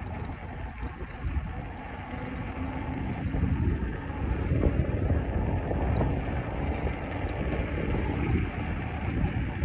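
Wind buffeting the microphone of a camera on a moving bicycle: a low rumbling rush that swells and eases.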